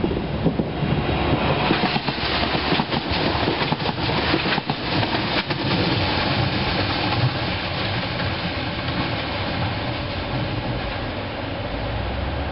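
NordWestBahn regional train passing by on the rails: its wheels clatter over the rail joints in a quick run of clacks for the first few seconds, then a steadier rumble carries on as it draws away.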